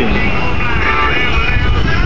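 A-10 Thunderbolt II's twin TF34 turbofan engines in a high-G turn: a loud, steady rumble with whining tones above it. Music plays along with it.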